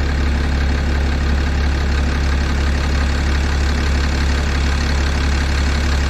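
6.7 L Cummins inline-six turbo-diesel idling steadily, running on its factory injectors at 859,000 miles, which the owner suspects are failing.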